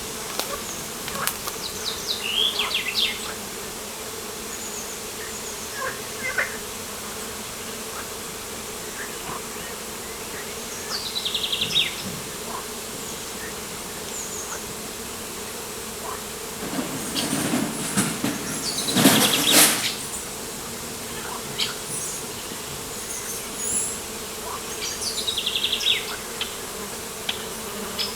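Insects buzzing steadily, with a bird repeating a short, rapid descending trill three times. A louder, closer buzzing sound passes for a few seconds past the middle.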